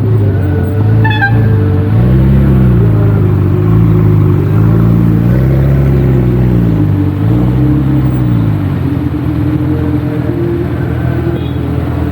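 Car engine running and being revved about four times, its pitch rising and falling with each rev, then settling back to a steady idle for the last few seconds.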